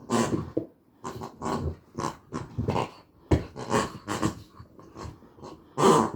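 Puppy growling in short, repeated bursts, about two or three a second, with one louder burst near the end.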